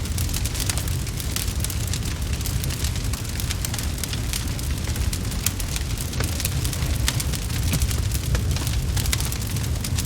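Crackling wood fire in a fireplace: many quick, irregular pops and snaps over a low, steady rumble.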